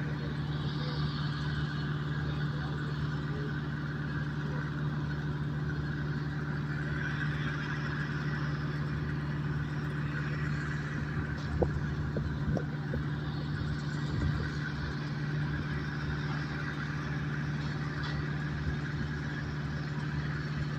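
An engine running steadily with a constant low hum, with a few short sharp knocks a little before the middle and one more a couple of seconds later.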